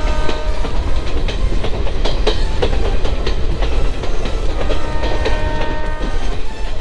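Passenger coach of an express train running at speed, heard from the open doorway: a steady heavy rumble with the wheels clacking over rail joints at irregular intervals.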